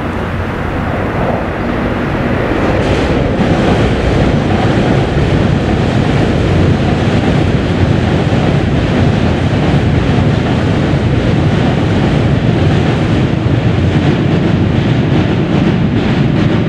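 Metro-North electric commuter train crossing a steel railroad bridge. The rumble builds over the first few seconds as the train comes onto the span, then holds steady and loud as the cars roll across.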